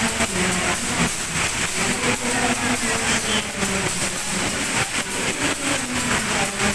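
Passenger train running on the rails, heard from inside the coach: a steady rumble and hiss with rapid irregular clacks from the wheels.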